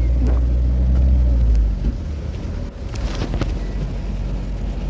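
A road vehicle driving: a heavy low rumble that falls away about two seconds in, then a brief hissing swish about three seconds in.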